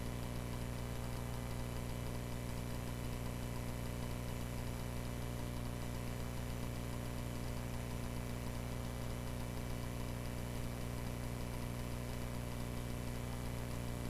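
Cessna 140A's four-cylinder piston engine and propeller droning steadily in flight, heard inside the cabin, with an even, unchanging pitch.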